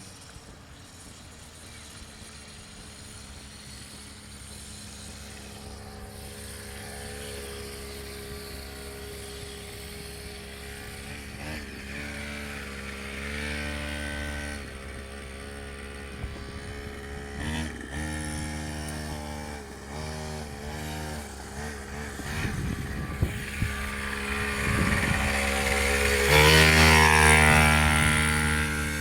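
Mini dirt bike's small engine running, its pitch rising and falling with changes of throttle and growing louder toward the end as it comes closer.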